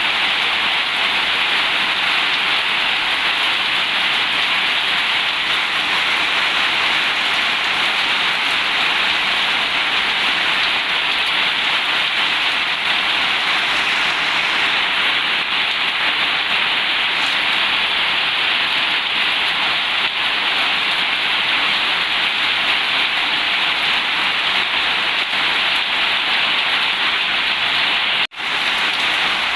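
Heavy rain falling as a steady, even downpour, with no thunder. It drops out for an instant about a second before the end.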